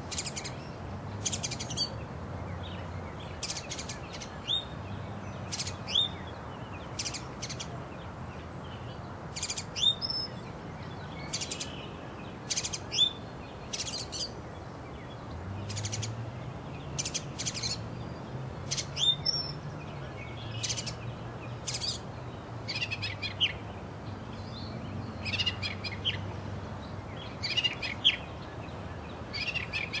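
Small birds chirping and calling in short, repeated high notes, some with quick pitch sweeps, coming about once or twice a second, over a low, wavering hum.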